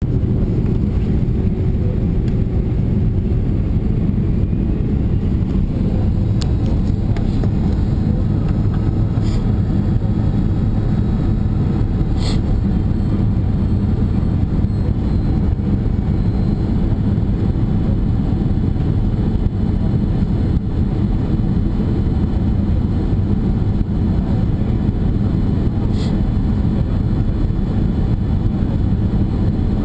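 Boeing 767 airliner on approach to landing: a steady low rumble of engine and air noise at an even level, with a few faint clicks.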